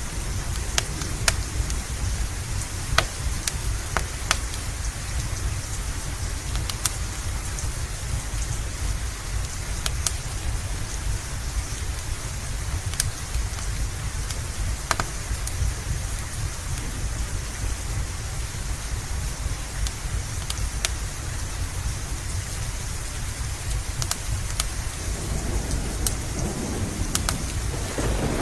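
Steady heavy rain under a constant deep rumble, with scattered sharp crackles and pops from a fireplace. Near the end, a roll of thunder builds.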